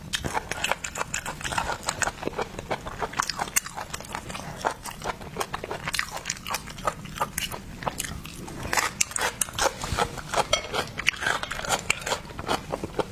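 Close-miked eating of shell-on seafood: steady biting and chewing with many irregular sharp crunches and crackles, as of shell breaking between the teeth.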